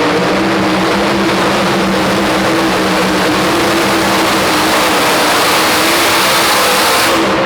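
Super modified two-wheel-drive pulling truck's engine running loud and steady at full throttle during a pull. About seven seconds in, the high hiss drops away as the throttle is let off at the end of the run.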